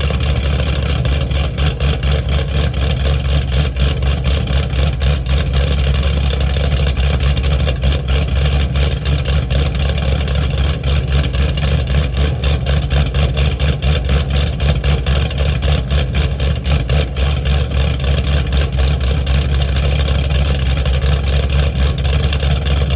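A GPI-cammed LS V8 in a fifth-generation Chevrolet Camaro idling with a choppy, pulsing exhaust note, on its first run after the camshaft install.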